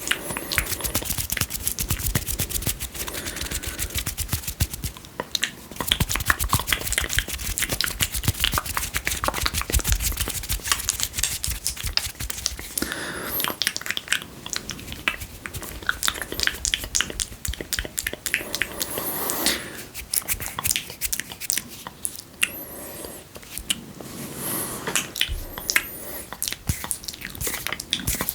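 Wet mouth sounds close to the microphone: rapid, irregular spit clicks and smacks, with a few softer breathy hisses between them.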